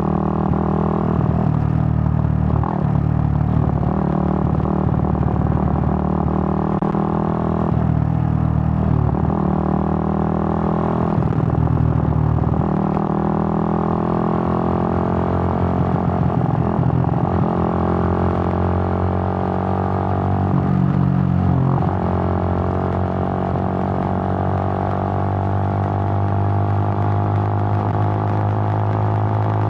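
Suzuki GN125's single-cylinder four-stroke engine running under way. The engine note dips briefly every few seconds in the first half, then climbs slowly and steadily through the second half.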